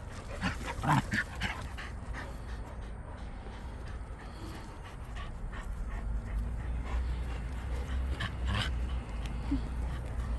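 A puppy panting, with a few short whimpers in the first second or so.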